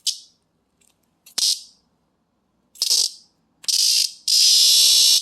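Cicada buzzing loudly and close up in short harsh bursts that come a second or so apart, then settling into a longer steady buzz near the end.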